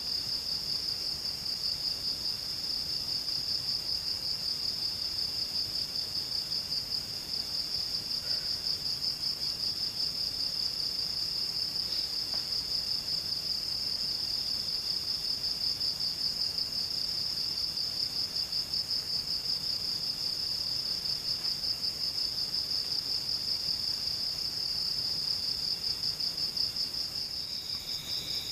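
Forest insects trilling: one loud, high-pitched trill with a fast pulse that never breaks, and a second, lower trill that comes and goes in short phrases.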